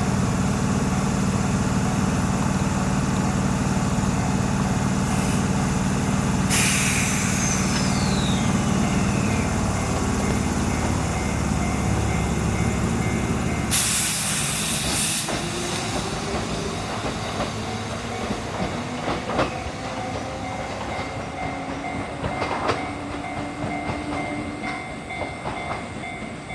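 Chichibu Railway 6000-series electric train at a platform: a steady low hum, broken by a burst of air hiss and then a longer, louder hiss about halfway through. It then pulls away with rising motor tones and occasional clicks of wheels over rail joints, fading toward the end.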